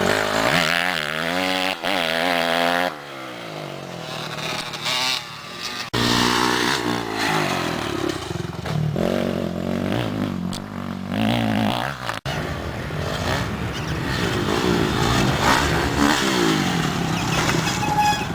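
Honda CRF250R motocross bike's single-cylinder four-stroke engine revving hard and easing off over and over, its pitch climbing and dropping as it goes through the gears.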